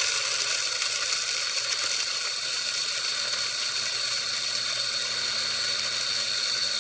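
Black+Decker One Touch blade coffee grinder's 150-watt motor running steadily with a high whine, its stainless steel blades grinding whole coffee beans.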